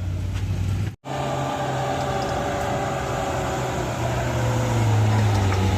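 Heavy vehicle engine running with a steady low drone and a whining tone that drifts slowly down in pitch. The sound cuts out for a moment about a second in, then resumes.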